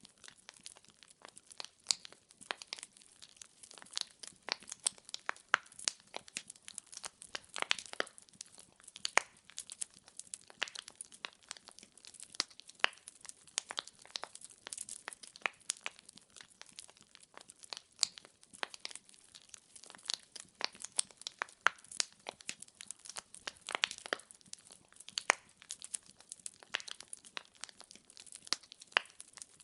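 Burning firewood crackling and popping: dense, irregular sharp snaps over a faint hiss of flame.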